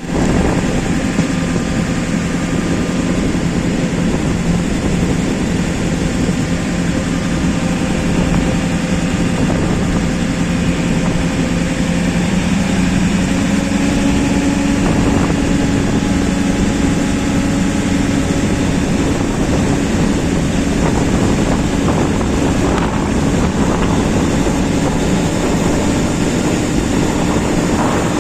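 A train running, with a steady engine drone whose pitch rises slightly about halfway through, and wind buffeting the microphone.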